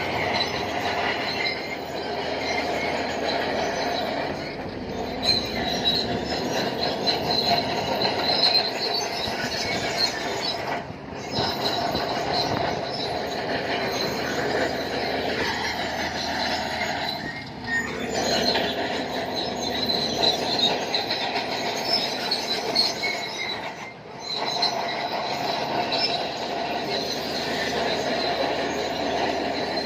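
Shantui crawler bulldozer running under load, its steel tracks squealing and clanking steadily as it works rock. The sound breaks off briefly a few times.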